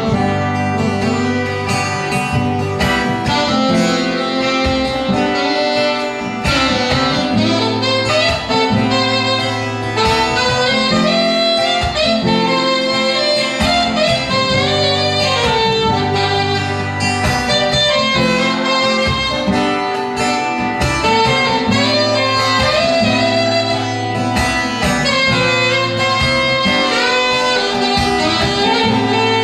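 Saxophone playing a melody over acoustic guitar accompaniment, in an instrumental passage of a ballad.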